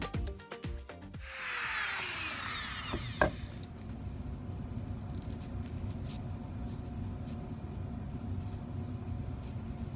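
Dremel rotary tool with a burring bit spinning down with a falling whine, a click about three seconds in, then a steady low hum.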